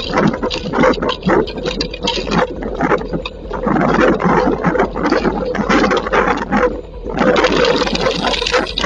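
Heavy rainstorm with strong wind: a loud, irregular rush and clatter of rain and gusts, dipping briefly about seven seconds in.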